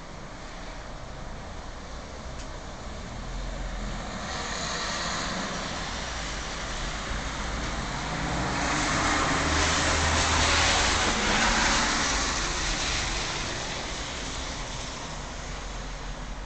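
Steady rain hiss with road traffic passing on wet pavement: a vehicle swells past about four seconds in, and a louder one rises and fades in the middle of the stretch, tyre hiss over a low engine hum.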